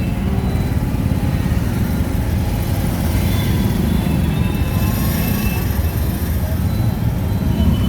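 Auto-rickshaw engine running steadily while riding on board, with street traffic noise around it.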